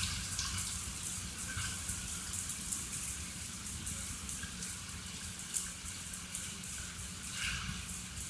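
Heavy thunderstorm rain falling: a steady hiss of downpour, with many separate drops ticking sharply close to the microphone.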